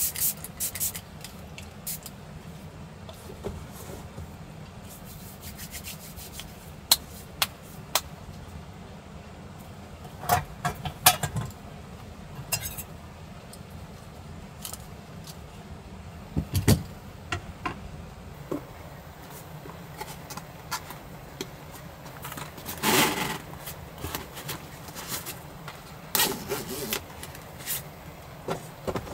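Small objects being handled at close range: scattered clicks, knocks, a brief clatter and some rubbing and scraping, over a steady low rumble.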